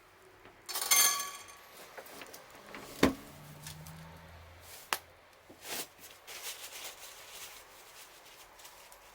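Sticks and firewood knocking and crackling at a campfire: a short squeaky scrape about a second in, one sharp knock near three seconds, then scattered smaller clicks and cracks.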